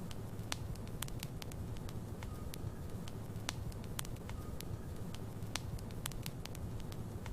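Wood logs burning in a fireplace: frequent sharp, irregular crackles and pops over a steady low rumble of flame, with a faint brief whistle now and then.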